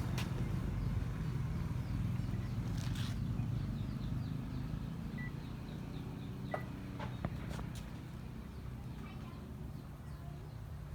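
Washing machine running on a test cycle: a low steady motor hum that slowly fades, with a few sharp clicks about seven seconds in.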